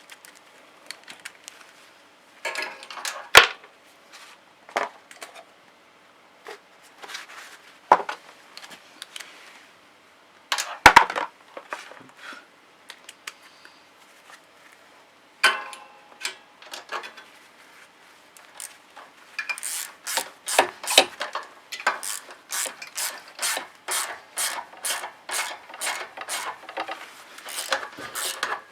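Hand tools and metal engine parts being handled while a valve cover is refitted on a snowblower engine: scattered knocks and scrapes. About two-thirds in comes a fast, even run of clicks, about three a second, as screws are worked in.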